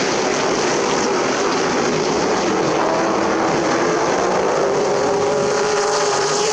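Several race truck engines running at speed on a short oval track, a steady blended engine noise with pitch lines that shift slowly.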